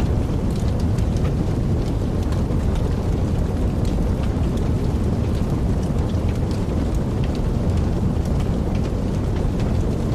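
Wood fire burning in a fireplace: a steady low rumble of the flames with frequent small crackles and pops scattered through it.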